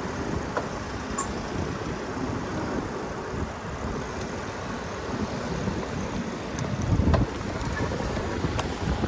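Wind buffeting the microphone while riding a bicycle: a steady, uneven rumble with a stronger gust about seven seconds in, and a few faint clicks.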